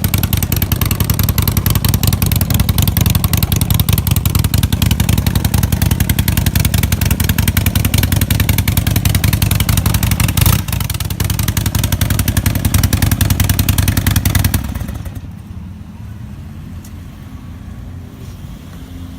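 Harley-Davidson Sportster 1200 Low's air-cooled V-twin engine running with a steady, loud beat, with a short knock about ten seconds in. The engine cuts off suddenly about fifteen seconds in, leaving quiet background.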